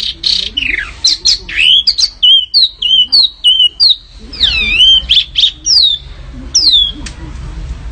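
Small songbird in aggressive 'fighting' song: a rapid run of sharp chirps and short, quickly falling whistled notes, thinning out and getting quieter near the end.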